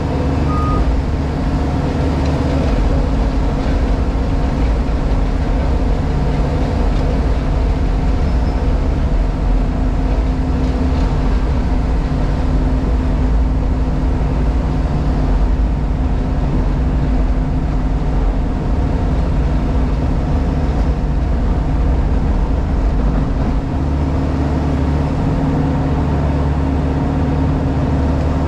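Diesel engine of a JCB Pothole Pro running steadily, heard from inside the cab, with a deep low rumble that eases about 23 seconds in.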